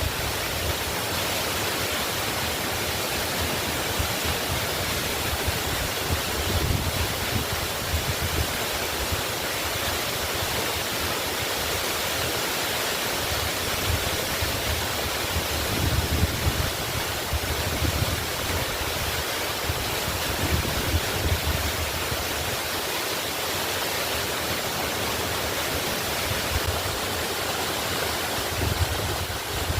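Waterfall: a steady, even rush of falling water, with low rumbles that swell and fade every few seconds.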